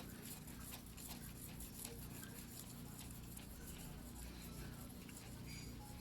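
A single-bevel fuguhiki sashimi knife being sharpened by hand on a whetstone: faint, repeated scraping strokes of the steel blade across the stone.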